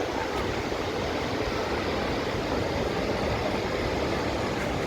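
Steady rushing roar of a large waterfall, the water pouring down without let-up.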